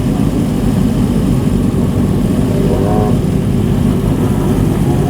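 Motorcycle engine exhaust rumbling steadily, with a faint voice briefly in the background about halfway through.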